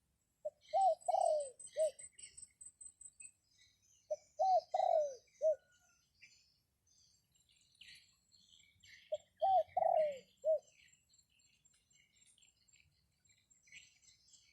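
A dove cooing three times, each phrase a quick run of four or five notes lasting about a second and a half, spaced a few seconds apart. Small birds chirp faintly throughout.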